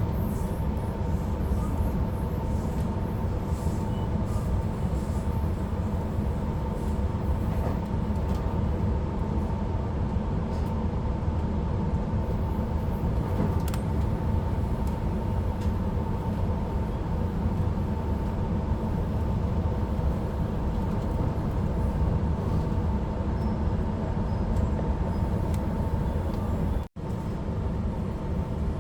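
Ride noise inside a Sydney Trains electric suburban train running at speed: a steady rumble of wheels on track with a constant whine over it. The sound cuts out for an instant near the end.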